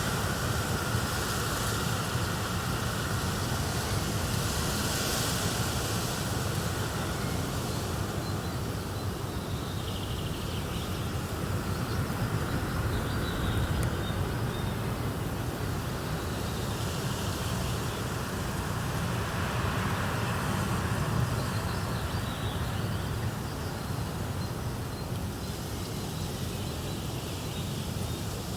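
Wood fire in a fireplace crackling and rumbling steadily, layered with a nature ambience.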